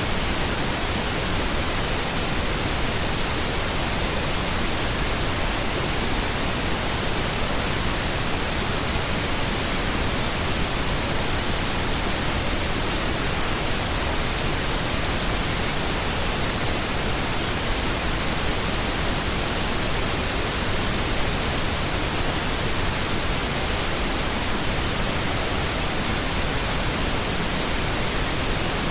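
Steady synthetic pink noise: an even, unchanging hiss across all pitches, with no events.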